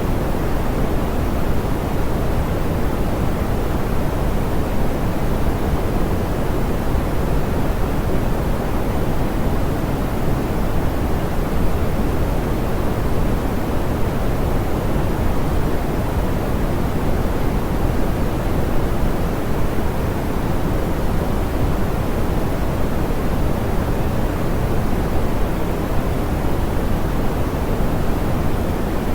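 Steady, softened pink noise: an even hiss weighted toward the low end, with the highs rolled off, constant in level throughout.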